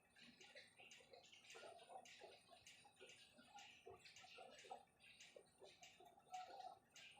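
Near silence with faint, irregular light clicking and ticking.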